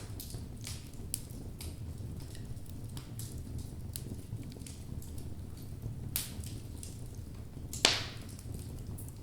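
Wood logs burning in a fireplace, crackling with a steady low rumble of flame and scattered small snaps. Two louder pops stand out near the end, the second the sharpest.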